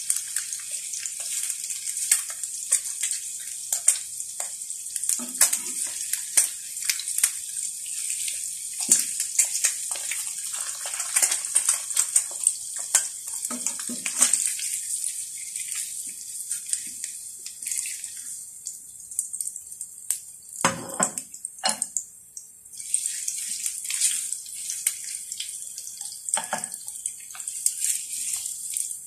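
An egg and thin slices of meat sizzling in a white ceramic-coated frying pan: a dense crackle full of small spattering pops. Now and then a spatula or chopsticks knock and scrape against the pan, most strongly a little past the middle, where the sizzle briefly eases.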